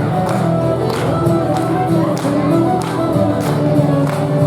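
Live music with voices singing over a steady beat of about two strikes a second.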